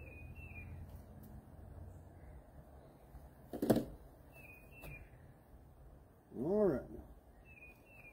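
Songbird repeating a short, high two-note chirp every few seconds, with two louder, lower sounds: a sharp one about three and a half seconds in and a longer one that rises and falls in pitch about six and a half seconds in.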